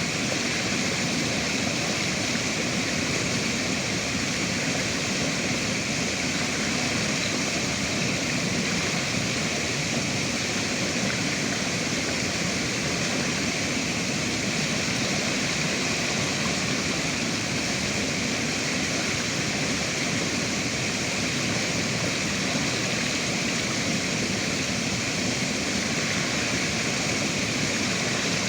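River water running and rushing in a steady, unbroken stream of noise.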